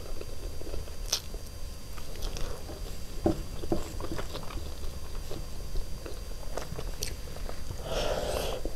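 A person chewing mouthfuls of chicken biryani eaten by hand, with small wet clicks and smacks of the lips and mouth. Near the end, a louder mouth sound comes as another handful goes in.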